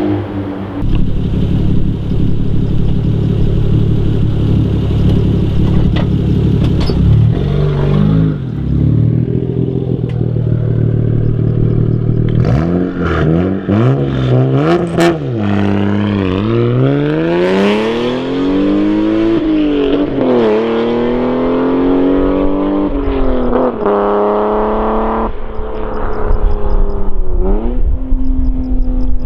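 Toyota JZX90 Mark II's 1JZ-GTE twin-turbo straight-six engine and exhaust, running steadily at first, then revved a few times, then pulling up through the revs with the pitch climbing and dropping back sharply several times, as at gear changes.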